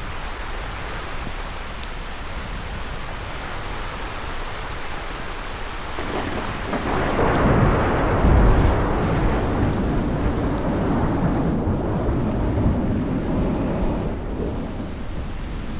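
Steady heavy rain, with a long roll of thunder that swells about six seconds in, is loudest a couple of seconds later, and rumbles away over the next several seconds.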